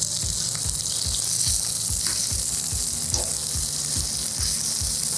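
Salmon fillets frying in oil on a hot Camp Chef flat-top griddle: a steady sizzle.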